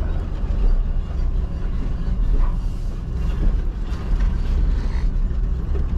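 Container truck's engine running steadily with a low, even rumble.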